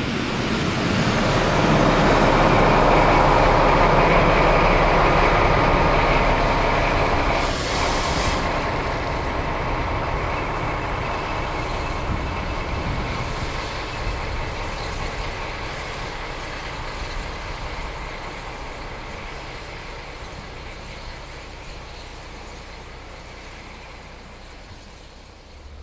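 A train passing with a V100 diesel locomotive at the head: its engine running and the wheels on the rails. It is loudest a few seconds in, then fades slowly, with a brief hiss about eight seconds in.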